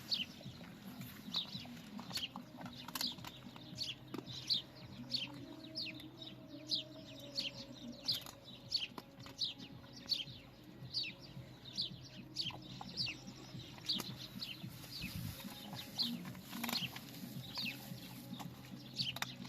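Birds peeping over and over: short high notes that drop in pitch, about two a second, with a low steady hum underneath.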